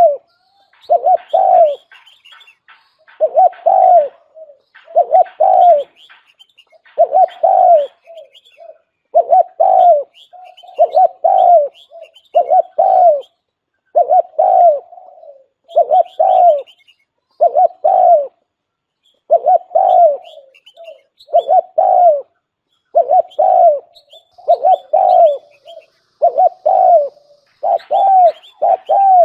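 Spotted dove cooing over and over in short phrases of a few coos, one phrase about every two seconds, with faint higher chirps between. These are the calls of a decoy dove, used to lure wild spotted doves.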